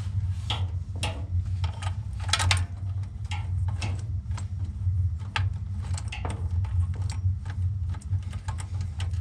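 Irregular clicks and light taps of furnace blower motor wires and a wire nut being handled, over a steady low hum.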